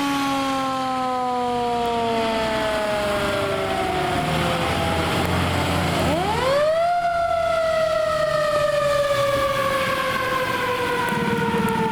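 Fire apparatus siren winding slowly down in pitch, then rising sharply about six seconds in and winding slowly down again. A heavy truck's engine rumbles underneath.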